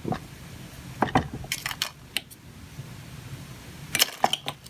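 Small metal hand tools clicking and tapping against a small electronic device being worked on by hand, a few sharp clicks at a time in short clusters about one second in, around one and a half seconds in, and again near the end.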